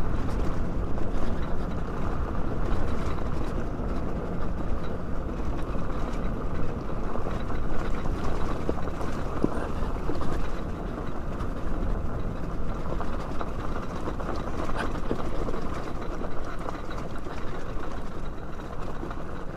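Dirt bike coasting on a dirt trail with its engine dead, out of fuel: a steady rumble of tyres rolling over dirt and wind on the helmet microphone, with no engine note.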